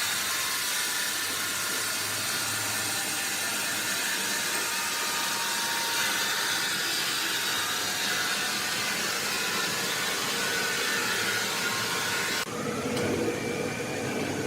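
Sawmill machinery running with a steady, high-pitched rushing noise. Near the end it cuts off abruptly to a lower, duller hum.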